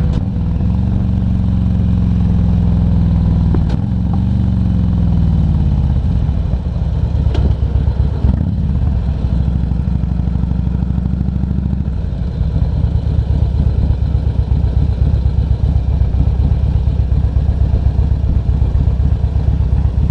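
Harley-Davidson Ultra Classic Electric Glide's V-twin engine slowing, its pitch falling over the first few seconds as the bike pulls over, then idling with a rapid, uneven pulsing beat from about twelve seconds in.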